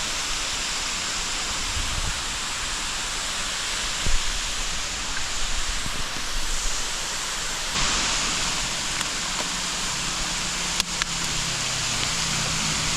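Steady rushing of water, an even hiss. It turns suddenly brighter about eight seconds in, with a couple of brief knocks.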